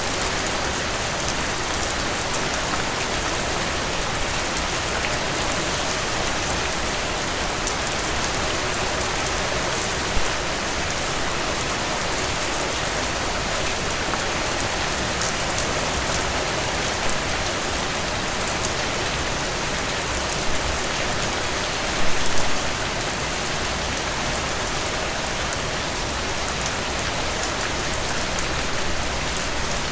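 Steady rainfall, a constant even hiss flecked with fine ticks of individual drops, with a few brief louder moments, the biggest about 22 seconds in.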